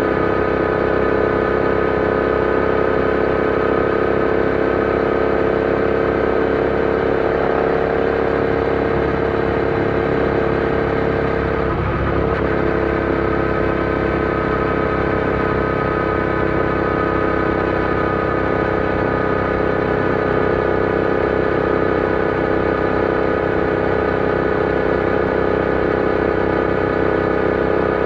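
Royal Enfield Interceptor 650's parallel-twin engine running at steady revs while riding, with a brief change in pitch about twelve seconds in.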